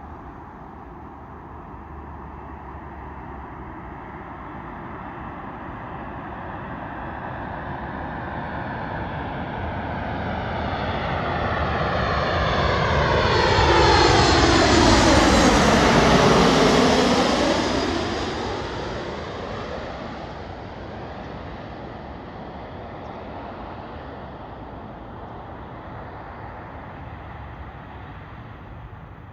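Ryanair Boeing 737 jet airliner passing low overhead on landing approach: the engine noise builds to a loud peak about halfway through, its whine sweeping down in pitch as it goes by, then fades away.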